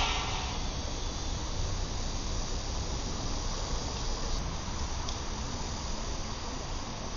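Crickets chirping steadily, over a low, even rumble.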